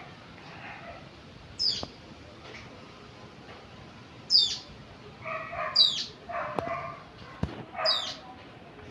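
A dog barking in short bouts while a bird gives four sharp, falling whistles, the loudest sounds.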